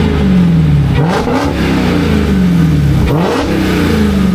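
Mopar car's engine revving hard through a burnout. The pitch sags for a second or so, then jumps back up, twice, as the throttle is worked.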